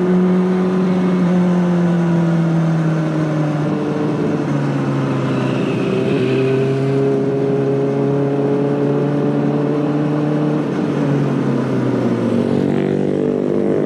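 Honda CBR600RR inline-four engine running through an Akrapovic exhaust at steady mid revs. The pitch sags slowly, drops in a step about four seconds in, then holds at a lower note.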